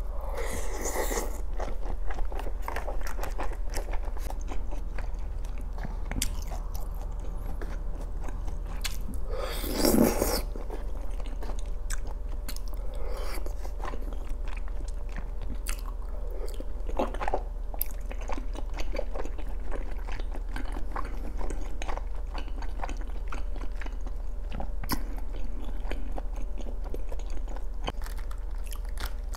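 Close-miked eating sounds: a bite into a dumpling at the start, then chewing with many wet mouth clicks. There is one louder mouth sound about ten seconds in.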